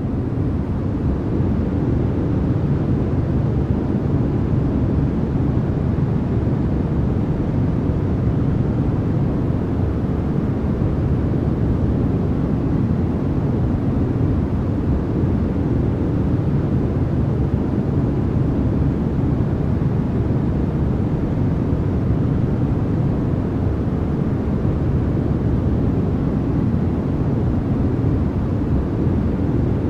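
Synthetic noise played as 'white noise' for sleep: a steady, loud rushing hiss weighted toward the low end, so it sounds deep and rumbling rather than bright, finishing its fade-in about a second in.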